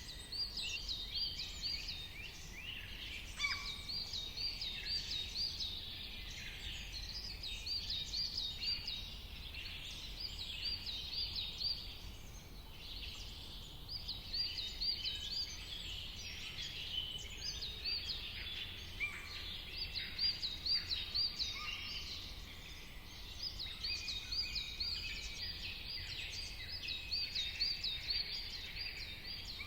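Several songbirds chirping and singing over one another in a dawn-chorus-like mix. One high, quickly repeated chirp recurs in runs of a few seconds. A low, steady rumble sits underneath.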